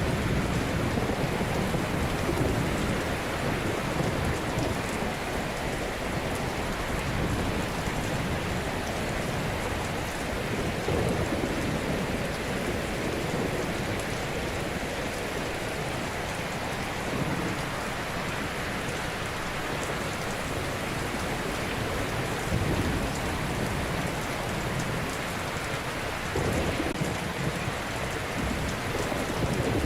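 Ocean waves breaking on a shore: a steady wash of surf, with slow swells as waves come in every several seconds.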